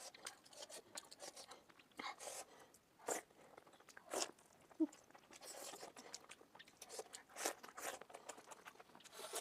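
Close-miked eating of momo dumplings: biting and chewing with wet, clicky mouth sounds, sped up to double speed. A brief low hum about five seconds in.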